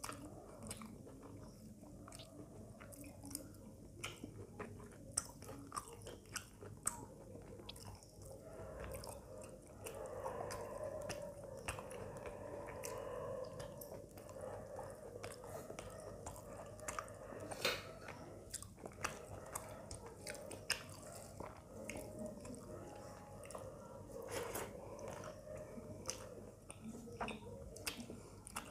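Close-up chewing of a mouthful of rice and curry eaten by hand, with many sharp wet mouth clicks and smacks throughout.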